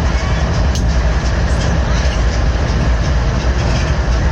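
Train cars rolling past with a steady heavy rumble, with a few sharp clicks from the wheels on the rails.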